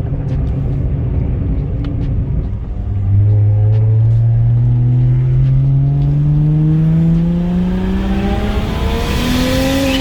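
Single-turbo BMW 335i's N54 straight-six accelerating, running a ball-bearing GTX3582R turbo. The engine note is lower for the first few seconds, then climbs steadily in pitch from about three seconds in, with a hiss building near the end.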